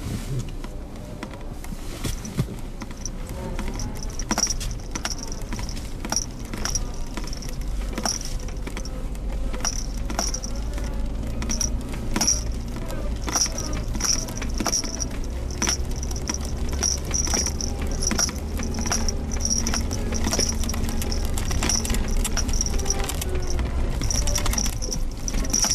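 Suzuki Jimny Sierra driving over a rough forest road: a steady low engine and road rumble, with many short knocks and rattles from the body and loose items. A high chirp repeats about once a second.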